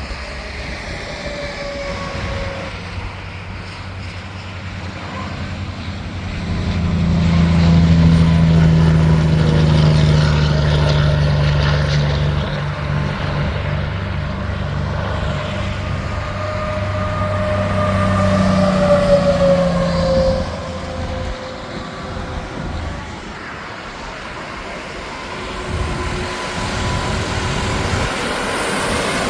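Interstate traffic with tractor-trailers going by: a low diesel engine drone swells and fades, and tyre hum and whine slide down in pitch as the vehicles pass. It is loudest from about a quarter of the way in to about two-thirds through.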